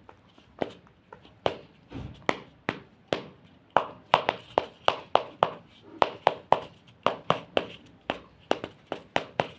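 A run of sharp taps or knocks, irregular at first and coming faster, about three or four a second, from about four seconds in.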